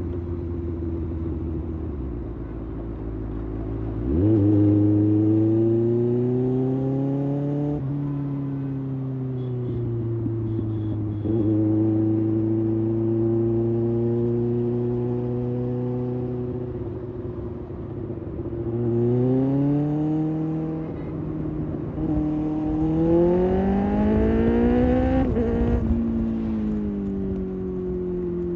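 Kawasaki ZX-6R's inline-four engine on the move. It runs low and steady at first, then revs up sharply about four seconds in. It pulls through several rising sweeps in pitch, each broken off by a drop in revs at a gear change, the last near the end.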